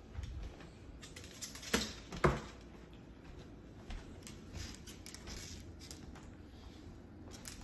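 Pet Moluccan cockatoo scuffling and tapping about, light scratchy taps with two sharp knocks about two seconds in.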